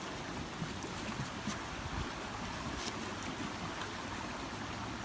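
Steady rushing of a river in flood, with a few sharp crackles from the campfire.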